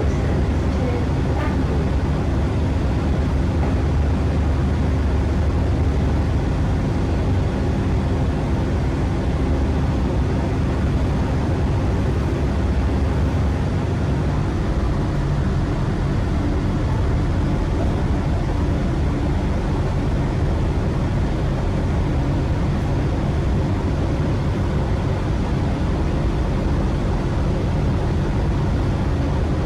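Steady rumble and running noise of a passenger train travelling along the line, heard from inside the carriage, with a low hum that stops about halfway through.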